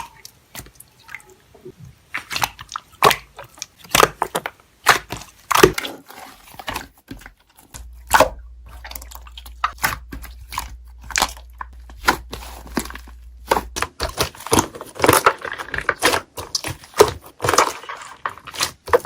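Slime being squeezed, stretched and pressed by hand, giving rapid sticky crackles and pops. A low hum runs under it for a few seconds in the middle.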